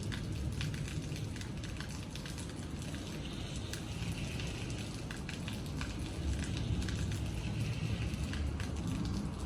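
Rain falling steadily, with many sharp drops tapping on a hard surface over a low rumble.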